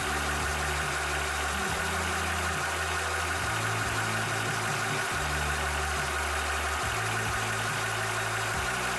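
Cobra 300-bar portable PCP air compressor running steadily while pumping, with a constant mechanical drone and a steady high whine over a low hum.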